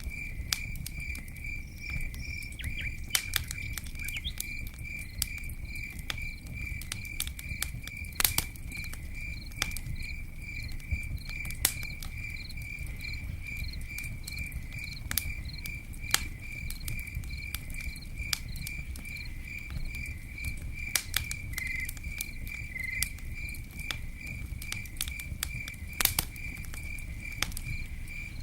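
Campfire crackling, with scattered sharp pops over a low steady rumble, while a cricket chirps in an even rhythm of about three chirps a second.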